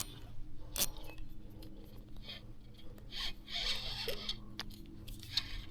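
Small clicks and scrapes of fishing gear being handled while a hooked fish is played, with a short hiss about three seconds in.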